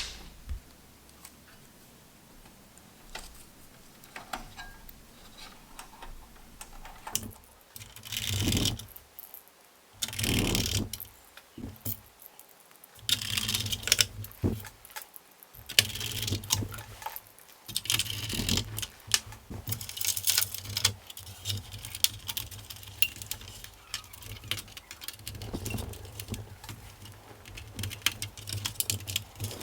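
Irregular clicks and light clatter of small hard parts being handled and set down, broken by several bursts of rubbing noise about a second long.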